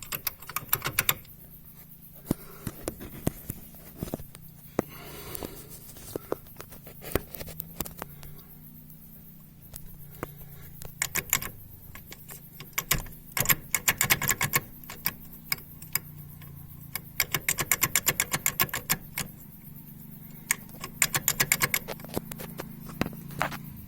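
Rapid metallic rattling clicks in repeated bursts from under the hood of a Kia Sportage 2 / Hyundai Tucson diesel, over a steady low hum: the ringing knock that shows at low revs.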